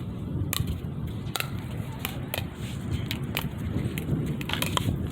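Pickleball paddles striking a plastic ball in a soft dinking rally: a string of sharp pocks at irregular intervals, about two a second. Wind rumbles on the microphone throughout.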